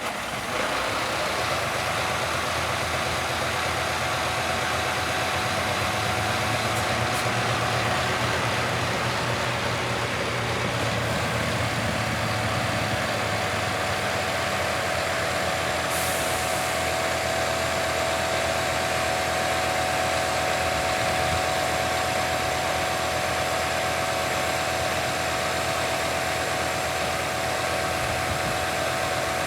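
Scania P280 crane truck's diesel engine idling steadily, with a brief high hiss about halfway through.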